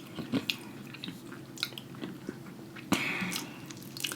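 Close-miked eating: chewing with short wet clicks and smacks, and one louder bite about three seconds in.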